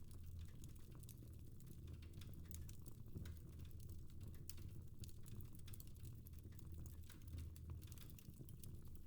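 Fire crackling in a fireplace: faint, irregular quick pops and snaps, several a second, over a low steady rumble.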